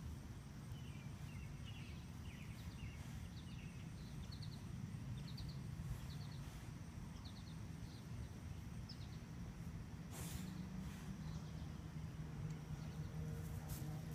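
Outdoor ambience: a steady low rumble with small birds chirping in short, quick clusters through the first nine seconds, and a brief rustle about ten seconds in.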